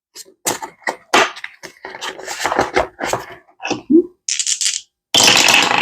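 Paper money and cash envelopes being handled: irregular crinkling, rustling and light taps, with a brief hiss of paper sliding past paper and a longer, louder rustle near the end.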